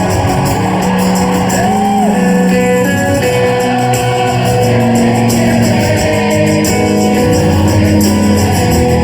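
Live rock band playing a song, with singing over guitars and a steady shaken tambourine, heard from the audience in a large hall.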